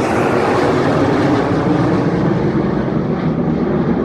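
Jet aircraft flying past, a steady loud rush of engine noise that grows duller as it moves away.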